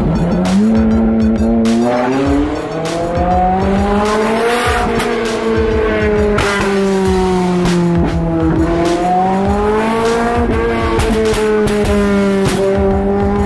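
Sports car engine running hard, its pitch climbing and falling slowly twice as the car speeds up and eases off.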